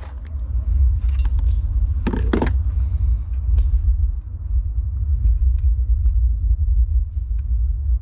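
Steady low rumble with a few light clicks, and a short clatter about two seconds in.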